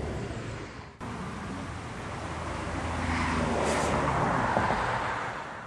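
Road traffic: a vehicle's noise swells and fades away.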